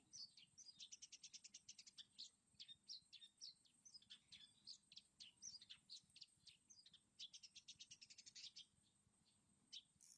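Long-tailed shrike (cendet) singing a varied, busy song of short chirps and quick trills of repeated notes. It thins out to a single call near the end.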